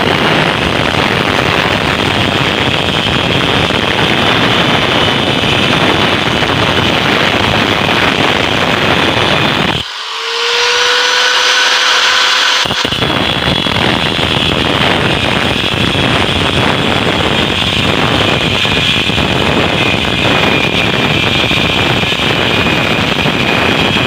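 Angle grinder cutting into the steel shell of a hermetic refrigerator compressor, a loud, dense grinding noise. About ten seconds in, the disc comes off the metal and the motor's whine rises in pitch as it spins up unloaded. A few seconds later it bites into the shell again.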